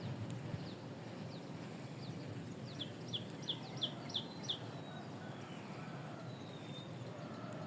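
A small bird calling: a quick run of about six short, high, falling chirps, about three a second, with a few single chirps before it, over a steady outdoor background hiss.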